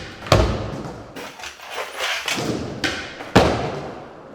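Skateboard being ridden and flipped on flat ground: two heavy board impacts about three seconds apart, with lighter clicks and taps of the board in between.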